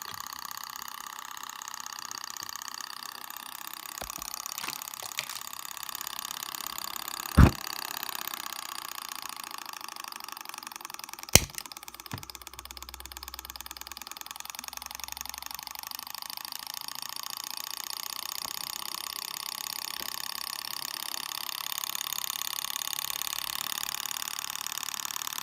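Small model Stirling engine running steadily with a fast, light mechanical whirr. Two sharp knocks stand out, about seven and eleven seconds in.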